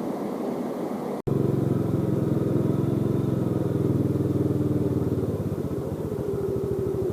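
Motorcycle riding with a rushing noise, then a sudden cut about a second in. After the cut comes the Yamaha Jupiter Z's single-cylinder four-stroke engine running steadily under way, easing to a slower, pulsing beat near the end as the revs drop.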